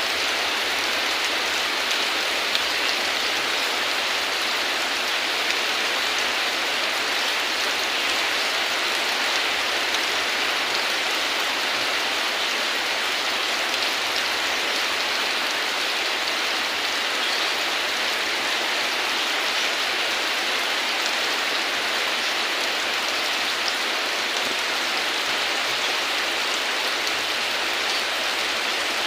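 Steady rain falling: an even hiss dotted with faint ticks of single drops.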